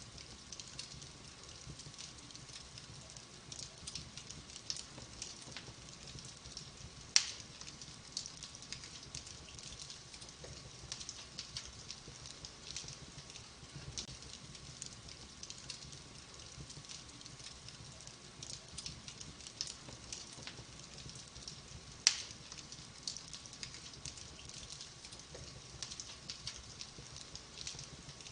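Wood fire in a fireplace crackling, a steady run of small pops and ticks, with two sharp, much louder snaps, one about a quarter of the way in and one about three quarters through.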